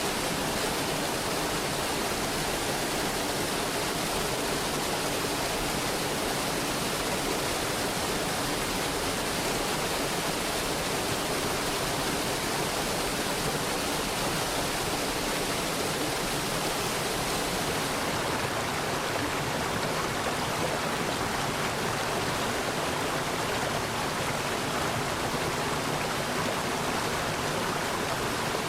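Mountain stream water rushing and splashing over rocks, a steady, full rush of sound.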